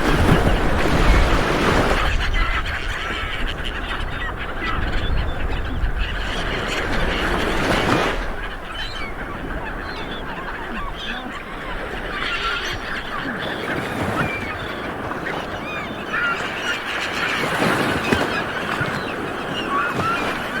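Light waves breaking and washing on a beach, swelling every few seconds, with many birds calling over the surf.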